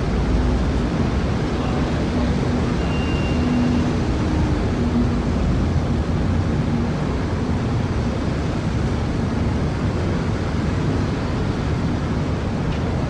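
Heavy city traffic heard from high above street level: a steady, low hum of many distant cars. A brief faint high tone sounds about three seconds in.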